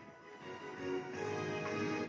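Music from a television: quiet at first, then steady held chords from about a second in, a short musical bridge as the news broadcast goes to a commercial break.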